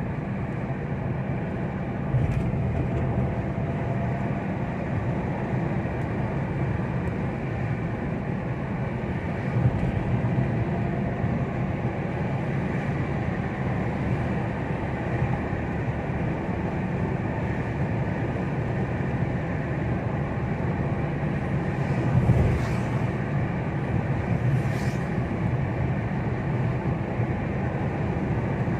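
Steady rumble of a vehicle on the move, engine and road noise heard from inside. There is a thump about ten seconds in and a louder one about 22 seconds in.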